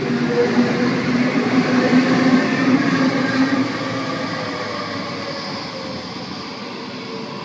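Sydney Trains Waratah electric train running, a steady hum with clear tones that grows quieter after about three and a half seconds.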